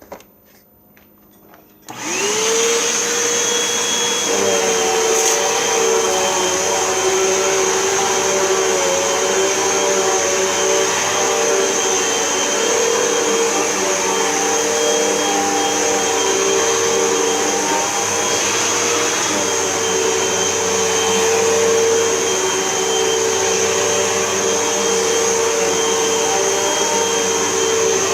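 Hoover upright vacuum cleaner switched on about two seconds in, its motor spinning up quickly and then running steadily with a constant whine while vacuuming a rug.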